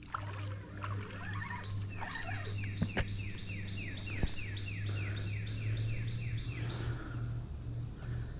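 A songbird singing a run of about sixteen short falling notes, roughly three a second, starting about two seconds in and stopping near seven seconds, over a steady low hum. Two sharp clicks fall in the middle of the song.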